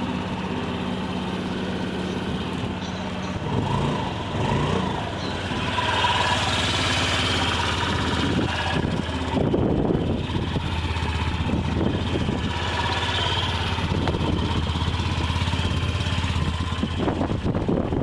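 Honda Gyro Canopy scooter's single-cylinder four-stroke engine running. Its note shifts about three and a half seconds in, then it runs steadily at a lower, fuller pitch.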